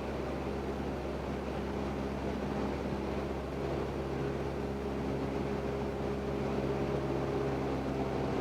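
Cessna 172N's four-cylinder Lycoming engine and propeller droning steadily in flight, heard from inside the cabin.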